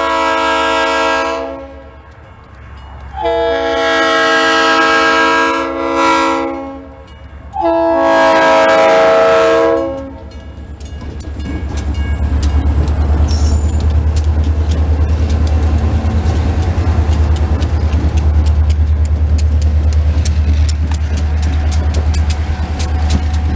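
Freight locomotive air horn blowing the grade-crossing signal: long, long, short, long, as a multi-note chord. Then the train passes with a steady low rumble and rhythmic clickety-clack of wheels over rail joints.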